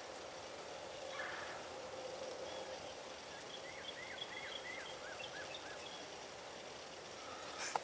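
Wild turkey calling faintly: one short call about a second in, then a quick series of about eight short notes in the middle. A faint steady hum runs underneath, and there is a single click near the end.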